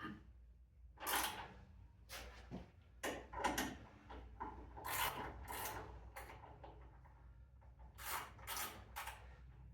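Hand ratchet tightening 10mm bolts, clicking in short runs of a fraction of a second, several times over with pauses between.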